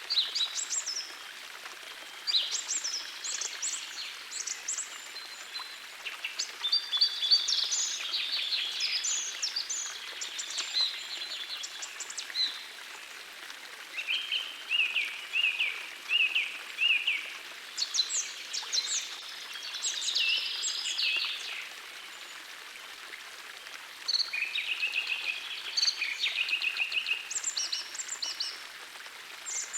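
Songbirds singing in bouts of quick, repeated high phrases, with a few seconds' pause between bouts, over the steady rush of a gentle forest stream.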